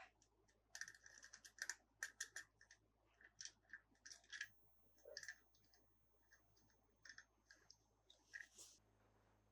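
Quiet handling of hard plastic, heard as a string of small sharp clicks and taps in clusters, with a pause about six seconds in.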